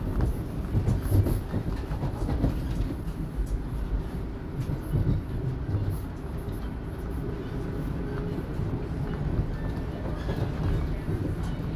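Toronto subway Line 1 train running between stations, heard from inside the car: a steady low rumble of wheels on the rails, with small uneven knocks.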